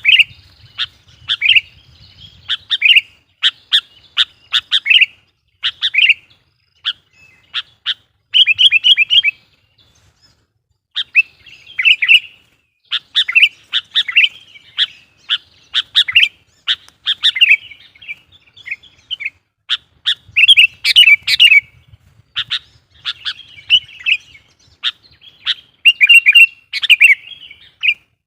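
Sooty-headed bulbul singing loudly and incessantly in rapid bursts of short, bubbling chirps, with a brief pause about ten seconds in.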